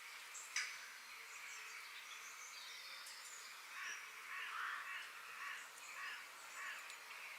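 Outdoor nature ambience: birds chirping over a steady background hiss, with a sharp click just over half a second in and a run of louder, harsh calls between about four and seven seconds in.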